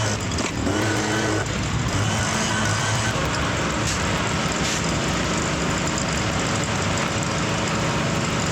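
A machine engine running steadily at a constant pitch.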